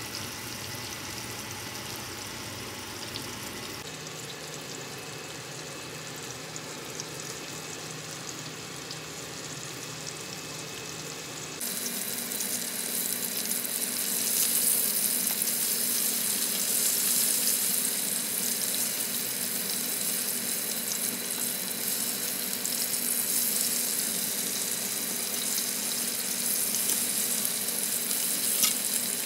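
Coated chicken tenderloins shallow-frying in hot oil in a frying pan, a steady sizzle that jumps louder and brighter about twelve seconds in.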